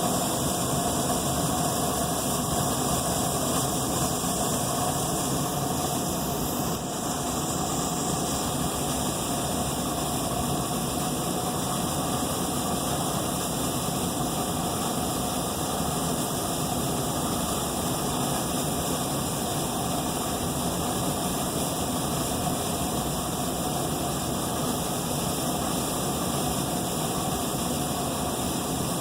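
Furnace running with a steady mechanical noise that holds unchanged.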